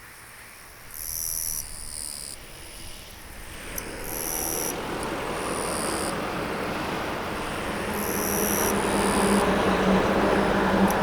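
Insects calling in repeated high-pitched bursts, each about half a second to a second long. A rushing noise swells from about four seconds in, and a steady low hum joins it near the end.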